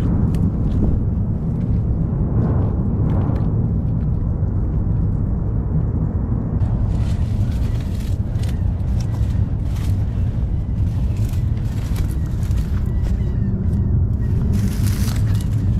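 A steady low rumble, with scattered light clicks and ticks over it from about seven seconds in.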